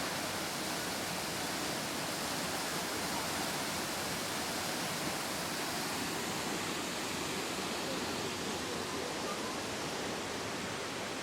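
Steady, even rush of a waterfall, Looking Glass Falls, its falling water making a constant hiss across all pitches without change.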